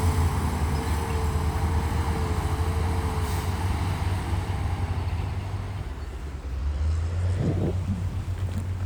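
Diesel engine of heavy earthmoving machinery running with a steady low rumble. A steady whine sits over it for the first few seconds, and there are brief squeals about seven and a half seconds in.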